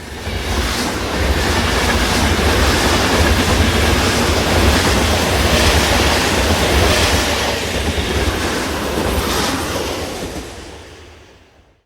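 Sound effect of a passing train: a loud rail rumble that swells in at the start and fades away over the last two seconds.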